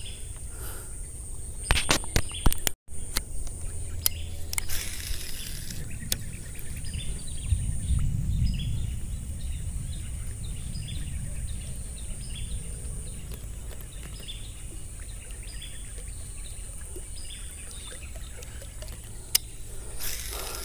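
Outdoor ambience by a ditch: a steady high-pitched hum with a bird calling in short repeated chirps. A couple of sharp clicks come about two seconds in, and a low rumble around eight seconds.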